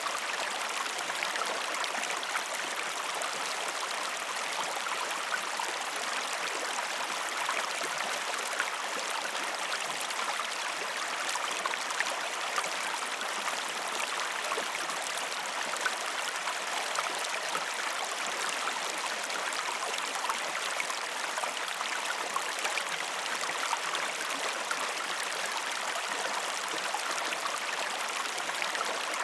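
Waterfall: falling water rushing steadily, dotted with many small splashes.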